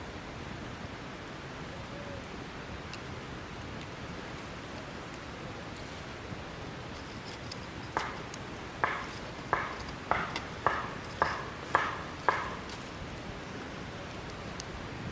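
Firewood being chopped or split: eight sharp knocks at roughly two a second, starting about eight seconds in, over a steady low hiss.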